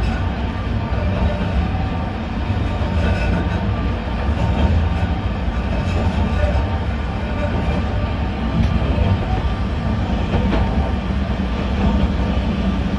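A 762 mm narrow-gauge electric train running, heard from inside the cab: a steady low rumble of wheels on rail, with a couple of light clicks in the second half.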